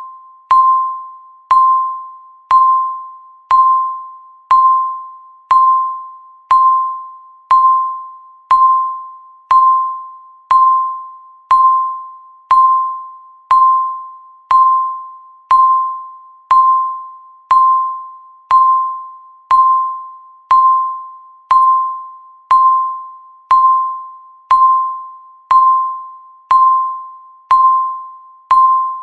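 Countdown timer's electronic tick: a short, bell-like ding on one pitch, sounding once a second and fading out before the next one.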